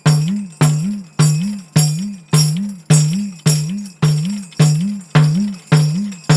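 Headed tambourine (ganjira) played with the din bass stroke, the index finger striking the head against the steel ring, about twelve even strokes, roughly two a second. Each stroke gives a deep bass note that bends briefly up and back down, with the jingles rattling over it.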